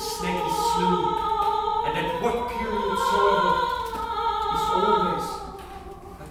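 Classical music with operatic singing: long held notes that swell and ease, over a soft accompaniment.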